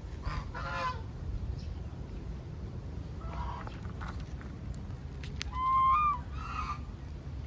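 Birds honking: four short, goose-like calls, the loudest and clearest about six seconds in.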